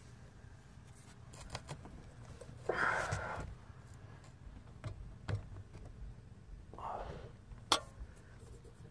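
Quiet handling noises from fitting the roof vent: a few light clicks and knocks, and two short scraping or rustling sounds, one about three seconds in and one about seven seconds in.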